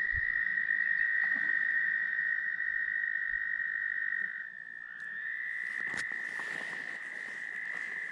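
A loud chorus of tree frogs trilling together as one continuous high-pitched drone. It dips briefly about four and a half seconds in, then picks up again, with a single sharp click about six seconds in.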